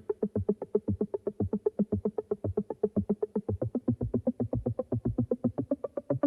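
Electronic music: a synthesizer plays a fast staccato pattern of short notes, about eight a second, over a drum-machine beat, at the opening of a new track.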